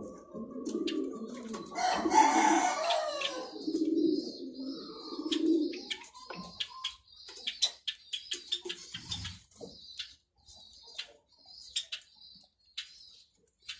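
Doves cooing in low, repeated coos for the first six seconds, with a louder, harsher call about two seconds in. After that come scattered short, high chirps and clicks.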